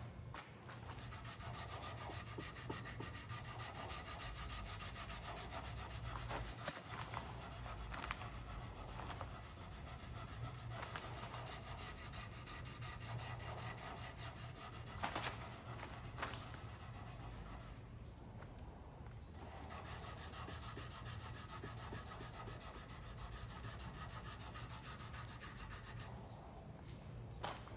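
Sandpaper rubbing steadily over cured epoxy on a carbon-fibre rigger, sanding the edge of the repair down to the masking tape, with two brief pauses in the second half.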